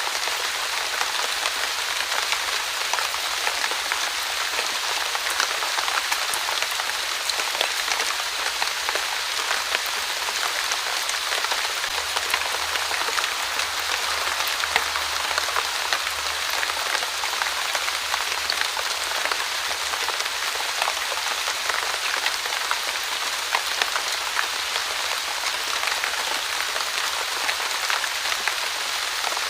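Steady light drizzle falling: an even hiss of fine rain with many small, sharp drop ticks scattered through it.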